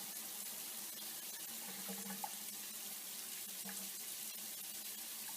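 Steady hissing noise with a faint low hum underneath, like water running from a tap.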